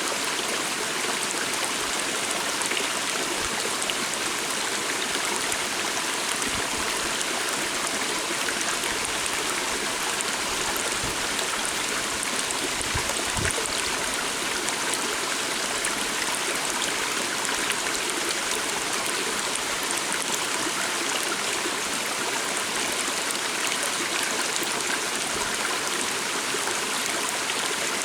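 A small stream flowing steadily: a continuous, even rush and babble of water.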